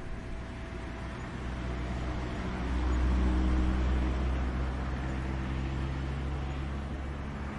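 A distant engine droning past: a low hum that swells to its loudest about three seconds in, then slowly fades.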